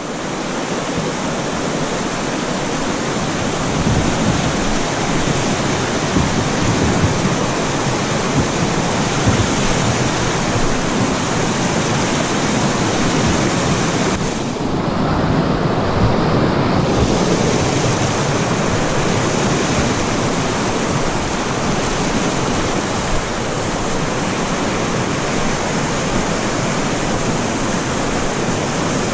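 Steady rush of river water running over shallow rapids. It is loud and even, and the higher hiss dims for a couple of seconds about halfway through.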